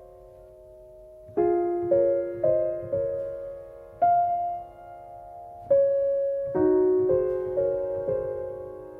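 Slow, gentle piano music: single notes and chords struck at an unhurried pace and left to ring and fade.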